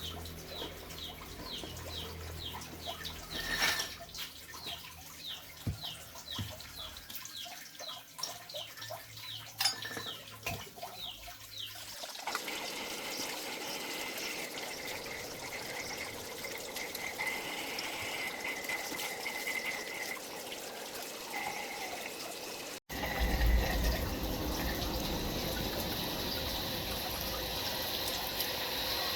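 Water running steadily from an outlet supplied by the household booster pump, louder after a cut about two-thirds of the way in. Over the first twelve seconds a bird chirps repeatedly, about twice a second.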